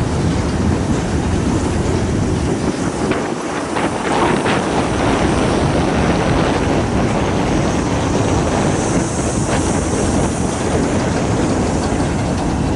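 Freight cars of a long manifest train rolling past on the rails, a steady rolling rattle of wheels and car bodies, with a few sharp clanks about three to four seconds in and again near ten seconds.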